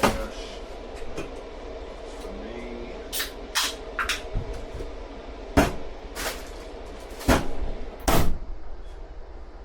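Irregular knocks and clatters of cleanup work in a food truck, about nine in all and the loudest near the start, about halfway through and near the end, over a steady low hum.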